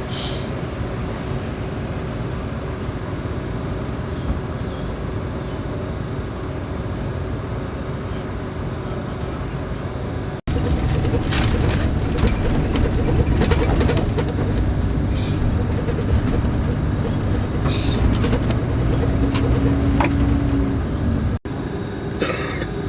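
Scania K410IB coach on the move, heard from inside the cabin: a steady engine and road rumble with rattles and clicks. It breaks off abruptly twice, and after the first break, about ten seconds in, the rumble is louder and heavier.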